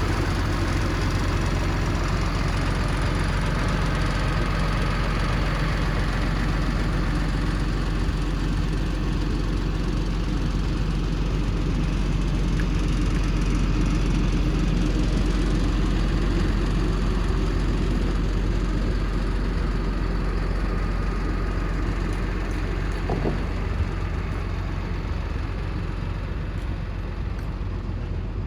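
The Cummins ISB 6.7L turbo diesel of a 2010 Ford F750 bucket truck running steadily, a little louder in the middle, with a single short knock near the end.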